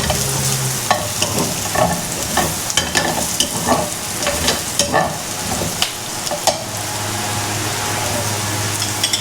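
Onions and garlic sizzling in butter in a frying pan as they are stirred, a steady hiss broken by frequent short clicks and scrapes of the utensil against the pan.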